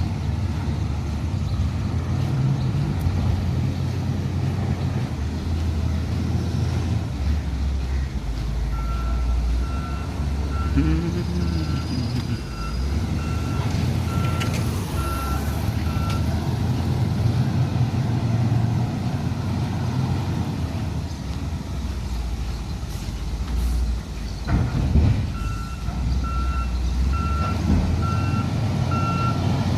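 Low engine rumble of a large vehicle with a steady electronic beeping alarm, about one and a half beeps a second, which starts about nine seconds in, stops around sixteen seconds and starts again around twenty-five seconds.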